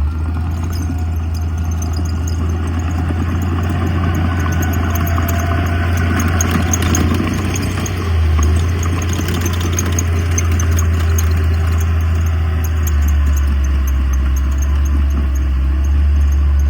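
Diesel engine of heavy earthmoving machinery running steadily under load with a deep, continuous rumble. The low pitch shifts slightly about eight seconds in and again about thirteen seconds in.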